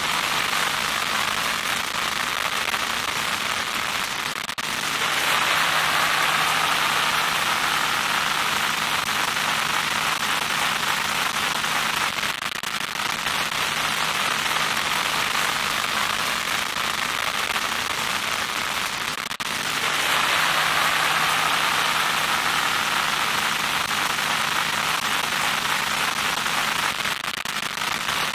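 Loud static: a harsh, crackling hiss with a steady low hum beneath it. It swells and eases in turn about every seven to eight seconds.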